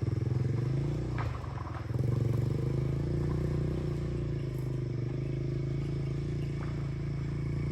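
An engine running steadily with an even pulsing hum, easing off briefly about a second in and then picking up again.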